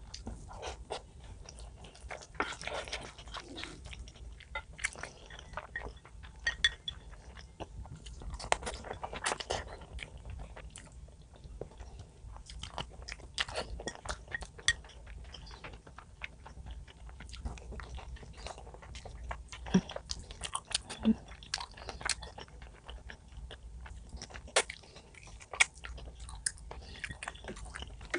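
A person chewing and biting food close to the microphone, with irregular sharp mouth clicks and smacks throughout.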